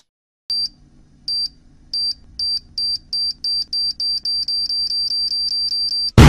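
Time-bomb countdown sound effect: a high electronic beep that repeats faster and faster, from about one a second to about four a second. A loud explosion sound effect bursts in right at the end.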